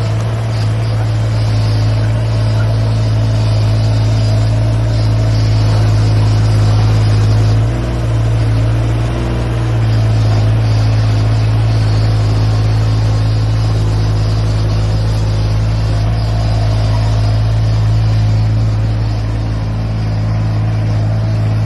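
An engine running steadily at constant speed, with a brief dip and change in pitch about eight seconds in before it settles back.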